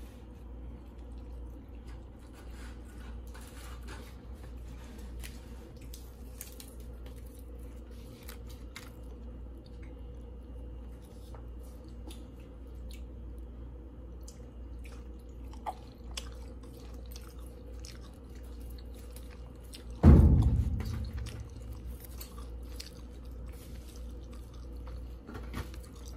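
A person chewing crispy fried chicken wings close to the microphone, with many small crunches and clicks. A single loud thump about twenty seconds in.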